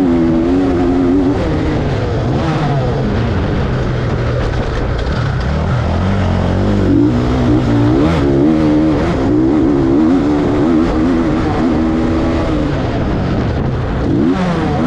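Motocross dirt bike engine revving, its pitch rising and falling over and over as the throttle is opened and closed.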